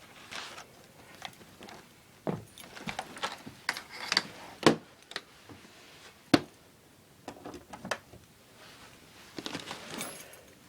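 Handling noise from a Bissell EasyVac upright vacuum being unfastened: a series of scattered plastic clicks and knocks, with two sharper knocks near the middle. The motor is not running.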